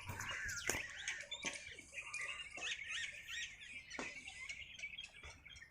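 Birds chirping, a busy run of short chirps and quick up-and-down whistled notes.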